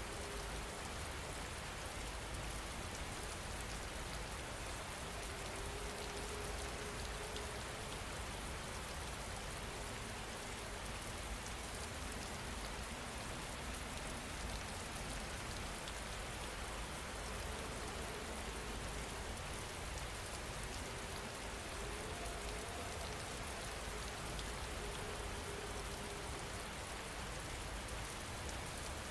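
Steady rain falling, an even unbroken hiss and patter.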